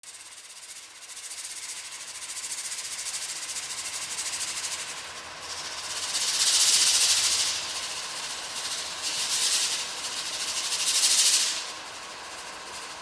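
Hissing, rustling noise, like a shaker or a long shush, starting suddenly and swelling in waves, loudest about halfway through and again near the end before falling back.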